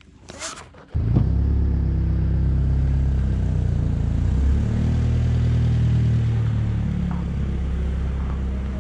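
Honda Civic's engine running as the car pulls away at low speed. The engine note shifts partway through, and the sound slowly fades as the car moves off.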